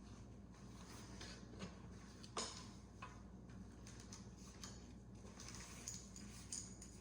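Faint scattered clicks and light taps over a low steady hum, with one sharper click about two and a half seconds in.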